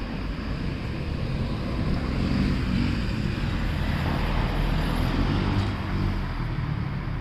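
A motor vehicle engine running nearby with a low hum. It grows louder in the middle and then eases off, as a passing vehicle does.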